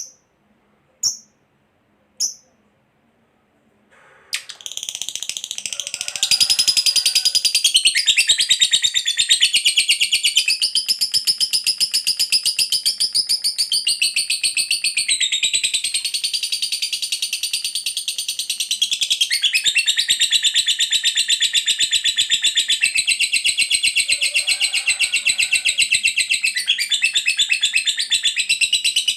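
Lovebird giving a few short chirps, then from about four seconds in a long, unbroken rapid chattering trill: the 'ngekek panjang' long chatter prized in fighter lovebirds.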